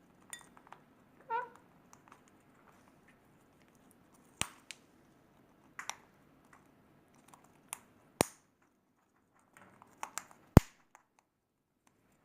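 Parrots' beaks clicking and cracking as they pick at ber (Indian jujube) fruit for the seeds: about eight irregular sharp clicks, the loudest near the end. A short faint squeak comes about a second in.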